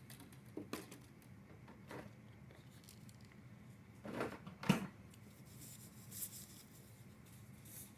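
Quiet room with a few faint, scattered clicks and light taps; the loudest is just before five seconds in.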